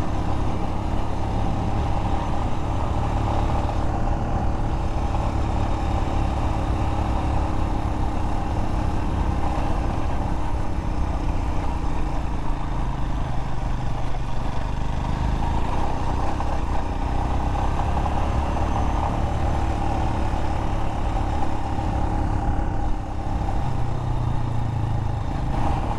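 Royal Enfield Himalayan's single-cylinder engine running steadily while riding, its note dipping slightly about halfway through and picking up again near the end.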